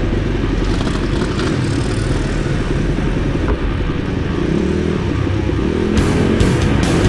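Pit bike engine running, loud and steady. About six seconds in, music with a heavy, regular drum beat comes in over it.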